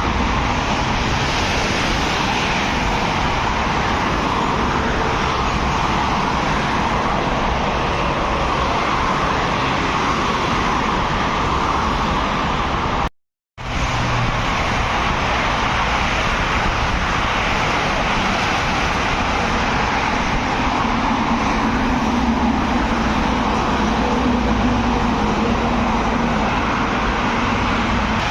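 Steady road traffic noise: vehicles and tyres running on a road. It cuts out briefly a little before halfway through, then resumes.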